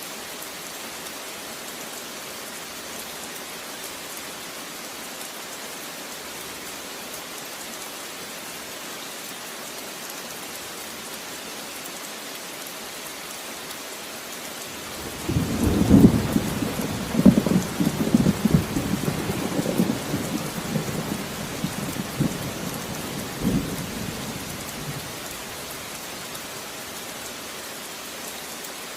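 Steady rain falling. About halfway through, a clap of thunder breaks in with several cracks and rolls on as a low rumble that dies away after about ten seconds.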